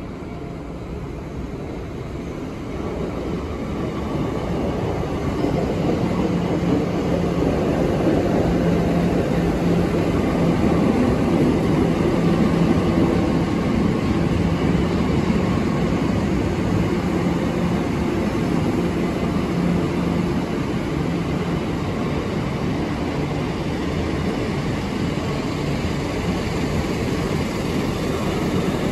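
Royal Mail Class 325 mail train, headed by a diesel locomotive, rolling slowly past: a steady rumble of wheels on rail with a low drone, building over the first few seconds and then holding.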